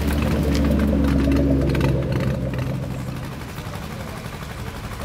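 A car's engine rumbling low as it drives past, loudest in the first two seconds and then fading away.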